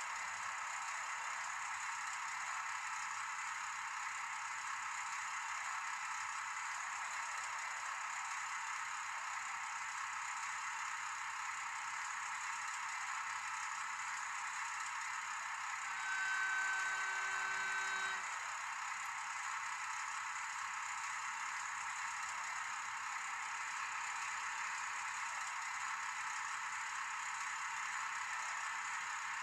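N-scale model train running on its track, a steady whirring rattle, with a steady tone lasting about two seconds about two thirds of the way through.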